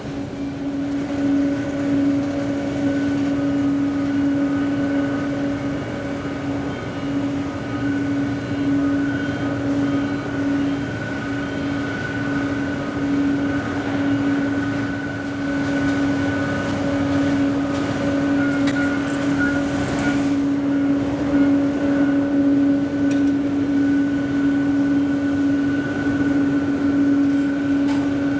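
Boeing 777-200's Pratt & Whitney PW4074 turbofans running, a steady drone over rumble with a humming tone that holds one pitch.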